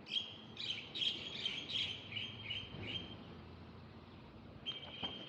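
Bird chirping: a quick run of short, high chirps for about three seconds, then a pause, with chirping starting again near the end.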